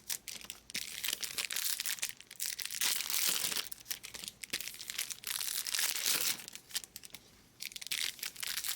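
Plastic trading card pack wrappers crinkling and being torn open, in repeated rustling bursts with small clicks of card handling.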